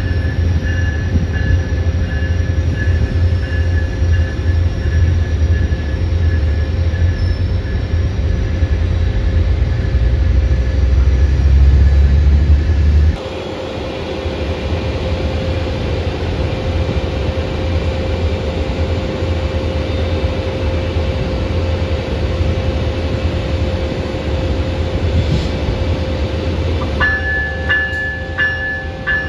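Train running: a heavy, steady low rumble with a constant hum. About halfway through it drops suddenly to a quieter, lighter running sound, and a run of regular clicks comes in near the end.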